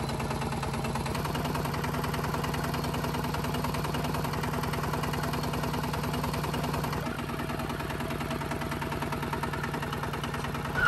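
The small motor of a homemade mini tractor running steadily with a fast, even pulsing hum. Its pitch steps up slightly about a second in, and it gets a little quieter and duller at about seven seconds.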